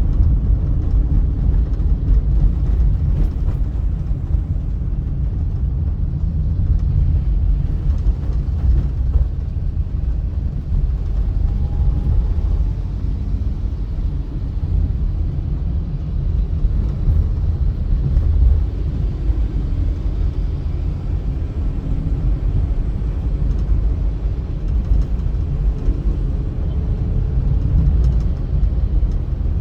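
Steady low rumble of a car driving along a highway: engine and tyre noise.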